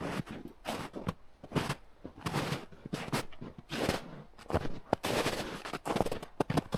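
Footsteps crunching through brush on a trail, with many irregular sharp cracks.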